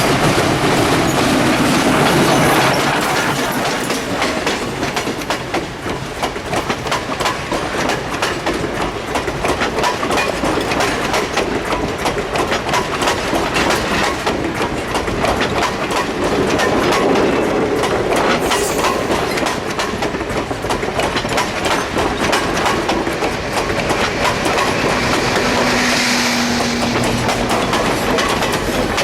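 Steam train behind Central Railroad of New Jersey 0-6-0 No. 113 rolling past, its wheels clicking rapidly over the rail joints. A brief steady tone and a hiss come near the end.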